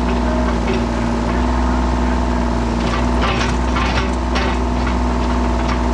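A vehicle engine running steadily while pulling a hay wagon, with short rattles and knocks from the ride, most frequent a little past the middle.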